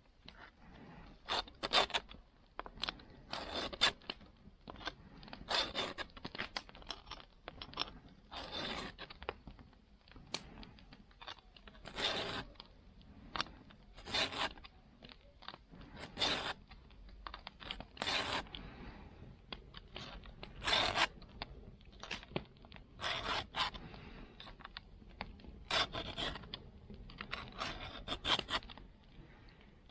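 A file scraping across a saw's teeth in slow strokes, about one every two seconds, each a short rasp.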